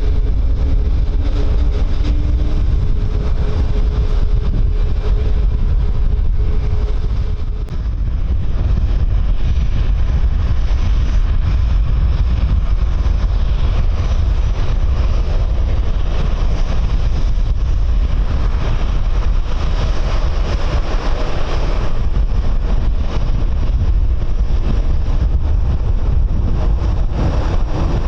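Jet aircraft engine noise with wind buffeting the microphone: a steady engine tone fades out about seven seconds in, and the engine noise swells again roughly halfway through before easing off.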